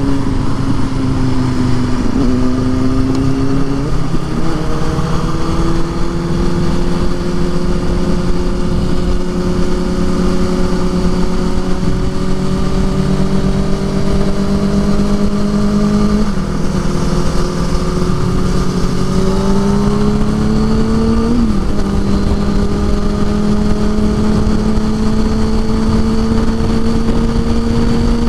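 Motorcycle engine running at road speed under steady wind rumble. Its pitch climbs slowly and drops sharply a few times, about 2 s, 16 s and 21 s in.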